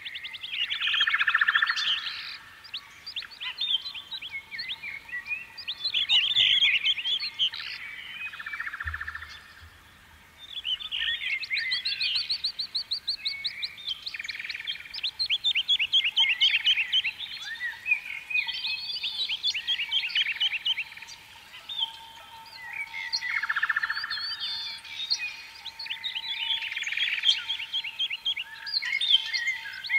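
Birds chirping and singing, with quick trills and repeated chirps in overlapping phrases.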